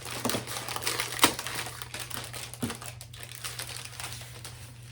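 Packaging of a craft kit being opened and handled, with irregular crinkling and rustling and a sharp click about a second in.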